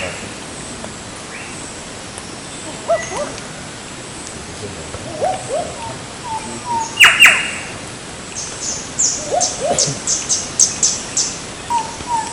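Wild birds calling: a loud harsh call about seven seconds in, softer short calls around it, and a quick run of high chips near the end.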